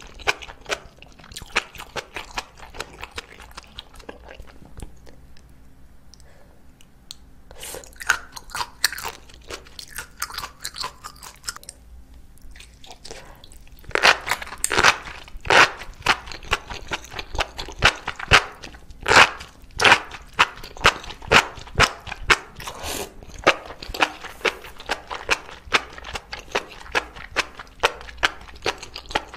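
Close-miked chewing of spicy enoki mushrooms in sauce, a run of wet, crunchy clicks. The chewing is soft and sparse at first. About halfway through a large new mouthful is taken, and the chewing becomes louder and rapid.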